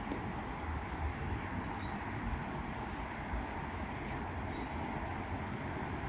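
Steady low rumble of a Boeing 747's jet engines, heard from a distance.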